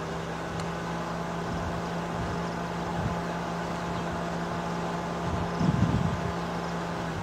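Vehicle engine running steadily at idle, an even hum, with a short rumble of low noise about five and a half seconds in.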